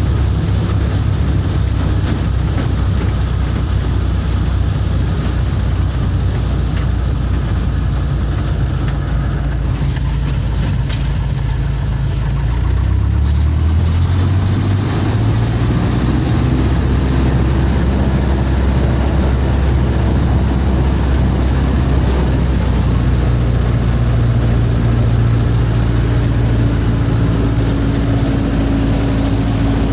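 Small two-seat light aircraft's piston engine running steadily. About halfway through, the engine note rises in pitch and gets a little louder as power comes up, then holds at the higher pitch.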